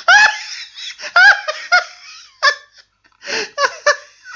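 A person laughing loudly and close to the microphone, in short, repeated pitched bursts.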